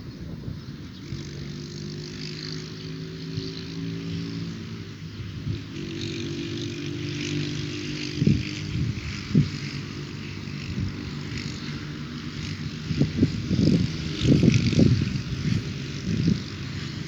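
A motor running steadily, its hum drifting slightly in pitch, with several low thumps, most of them bunched in the last few seconds.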